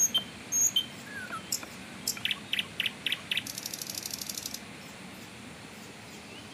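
Wild birds calling: sharp high chirps in the first second, then a quick run of about five notes and a fast, high trill about halfway through.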